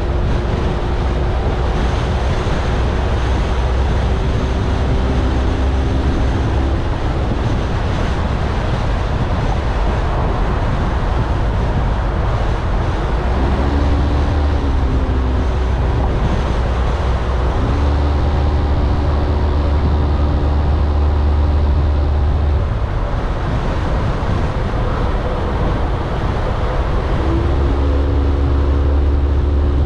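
Car driving through city traffic: steady road and tyre noise with a low engine hum that swells in and fades out several times.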